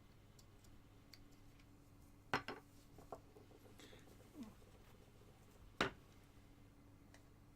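Several sharp clicks and clinks of small metal carving tools being handled and set down on a hard surface. The two loudest come about two seconds in and near six seconds in, over a faint steady hum.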